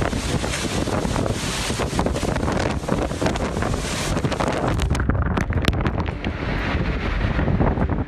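Strong hurricane wind gusting and buffeting the microphone in a dense, low rumbling rush. About five seconds in, the hiss thins and a few sharp clicks come through.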